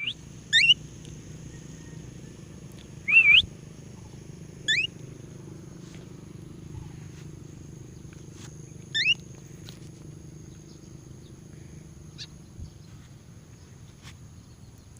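Budgerigar giving short, sharp rising chirps, four calls a few seconds apart, over faint steady background noise.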